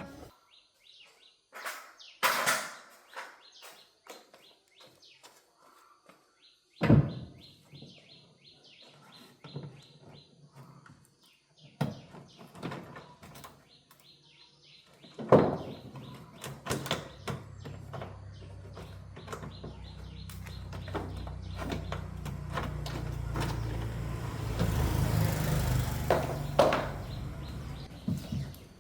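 Knocks, clicks and clatter from parts and tools being handled, with a few louder thumps. About halfway through a steady low machine hum starts and grows louder near the end.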